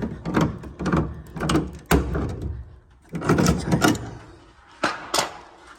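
Nuts being tightened with a wrench on the threaded-rod hangers of a ceiling-mounted heat pump: four bursts of metal clicking and rattling, then two sharp clicks near the end.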